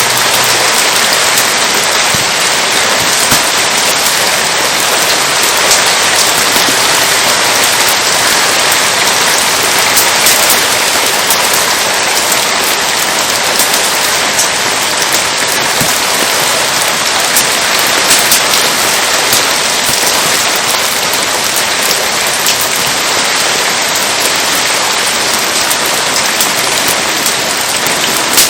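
Steady rain falling, a dense even hiss with many small sharp ticks scattered through it.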